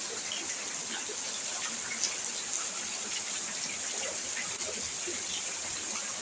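Steady rain falling, a continuous hiss of water with faint scattered ticks of drops.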